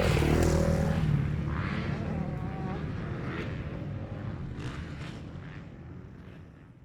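Motocross bike engines running around the track, a steady low rumble with faint distant voices over it, fading out steadily toward the end.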